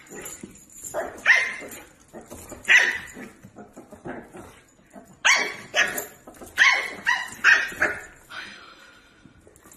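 A small puppy barking: about eight sharp, high-pitched barks in short clusters, with a pause near the middle.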